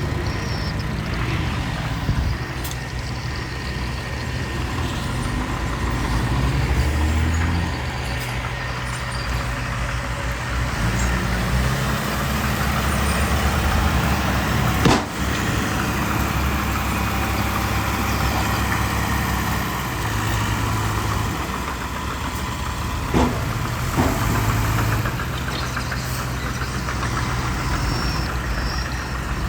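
Diesel engines of a small bulldozer and dump trucks working on a landfill site, a steady engine drone that rises and falls in pitch. There is a sharp knock about halfway through and two smaller knocks a little later.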